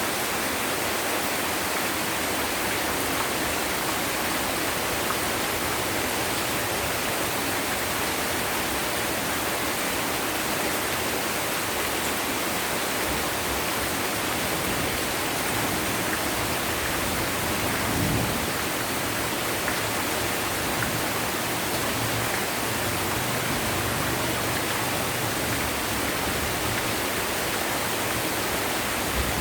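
Heavy rain pouring steadily, a dense even hiss, with a brief low rumble about two-thirds of the way in.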